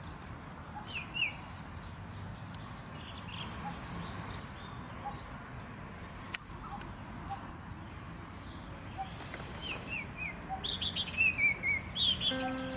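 Birds chirping outdoors: short high chirps and quick falling notes scattered throughout, with a faster run of falling notes near the end, over faint low background noise. A single sharp click about six seconds in.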